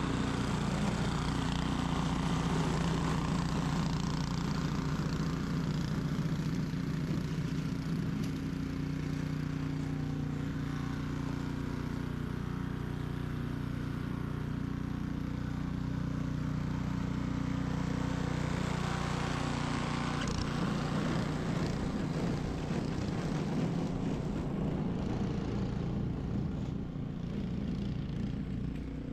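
Ariens 21-inch professional snow blower's engine running steadily, a constant engine hum with a rushing noise over it.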